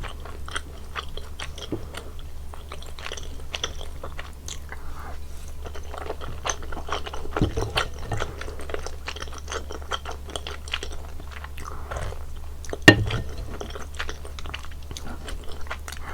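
Close-miked eating of spicy soup tteokbokki: steady chewing of the soft rice cakes with many small wet mouth clicks and smacks. A single sharp knock comes about 13 seconds in, the loudest sound, and a low steady hum runs underneath.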